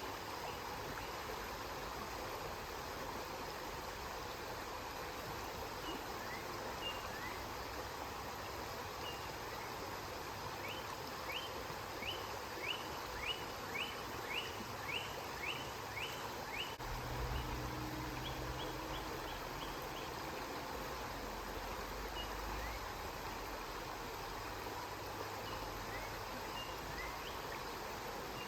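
River water flowing in a steady rush, with a bird giving short, high, upward chirps, coming quickly in a run past the middle. A low hum joins for several seconds after the middle.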